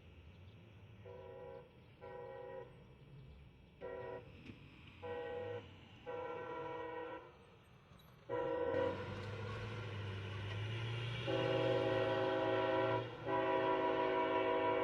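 Locomotive air horn sounding a series of short blasts, then a long, nearly unbroken blast that grows louder, with a low rumble beneath it.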